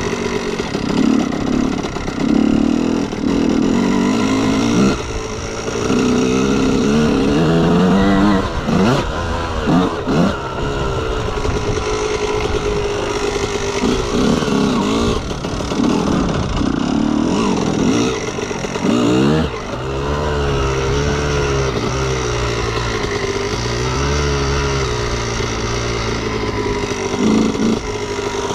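2003 Honda CR125R's 125 cc single-cylinder two-stroke engine revving up and down repeatedly, its pitch climbing and dropping every second or two. About twenty seconds in it settles to a lower, steadier note for a few seconds.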